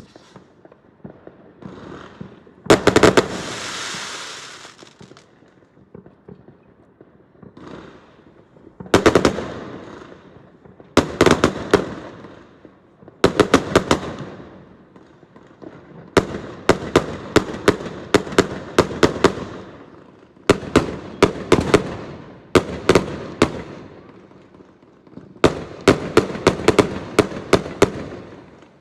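Fireworks going off in repeated volleys of rapid sharp bangs and crackles, with quieter gaps between volleys. The first burst, a few seconds in, trails off in a long hiss.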